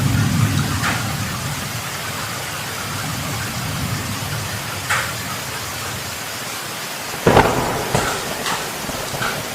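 Heavy rain pouring steadily during a thunderstorm. A low thunder rumble fades away over the first couple of seconds, and a few short sharp cracks follow later, the loudest about seven seconds in.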